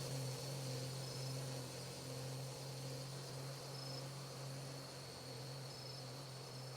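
Steady low hum, engine-like, with a faint steady high-pitched whine over it, slowly getting quieter.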